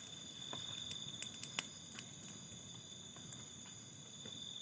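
Crickets chirping in a steady, high-pitched chorus, with a few faint clicks, the sharpest about a second and a half in.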